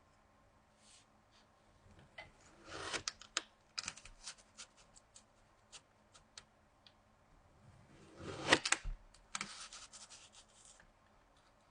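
Kinetic sand being cut with a knife, crumbling with soft crackly scraping and many small ticks, in two louder bursts about three seconds in and near the two-thirds mark.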